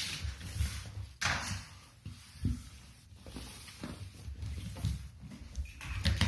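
Scattered knocks and clatter of Hot Wheels die-cast toy cars and plastic track pieces being handled and run, over a low rumble.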